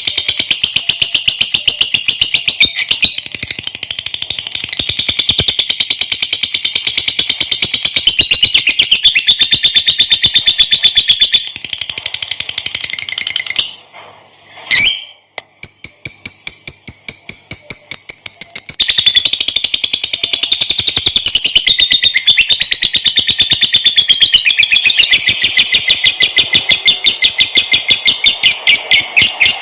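Lovebird's long 'ngekek' trill: a rapid, unbroken run of shrill chirps that carries on for many seconds. It breaks off for a moment a little before halfway through, then starts up again.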